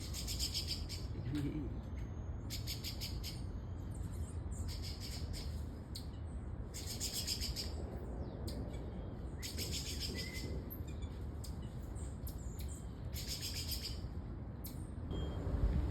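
A series of short, high-pitched buzzing trills from an animal, each under a second long, repeating every second or two, over a steady low rumble.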